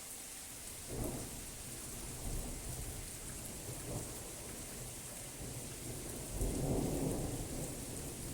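Steady rain with rolling thunder: a rumble starts about a second in and a louder peal swells near the end.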